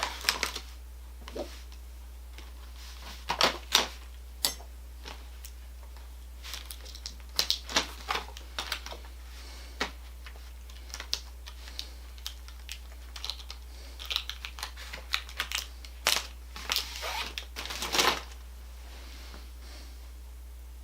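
Irregular clicks, taps and short rattles of small hardware being handled: a small plastic stop block and its screw being fitted.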